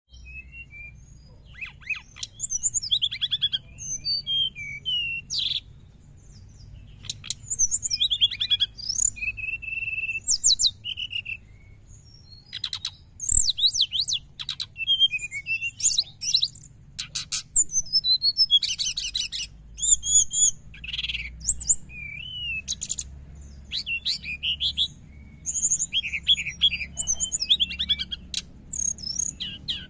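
Brown-chested jungle flycatcher (sikatan rimba dada coklat) singing fast and chattering, in the 'ngriwik' style. It gives bursts of high twittering phrases with short pauses between them.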